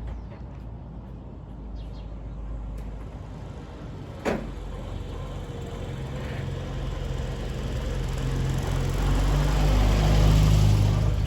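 Car engine running, its tone rising and growing louder over the last few seconds, with a single sharp click about four seconds in.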